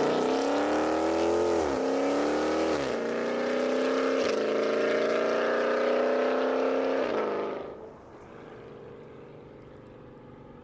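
Dodge Charger Scat Pack's 392 (6.4-litre HEMI V8) with a full Corsa exhaust under full-throttle acceleration. The engine pitch climbs and snaps down at four upshifts, the last gear pulling longest. About three-quarters through the sound drops off sharply to a faint low rumble.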